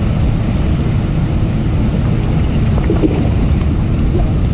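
Wind buffeting the microphone in a steady low rumble over the hiss of heavy rain.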